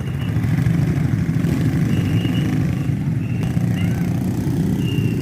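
ATV engine running steadily at low speed, a continuous low hum with no change in pitch.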